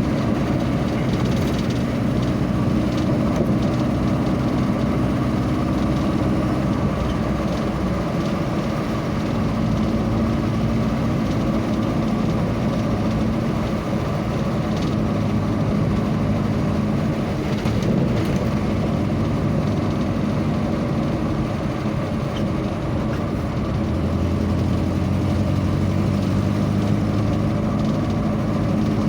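A vehicle engine running steadily on the road, its pitch shifting about seven seconds in and again near the end as the engine speed changes.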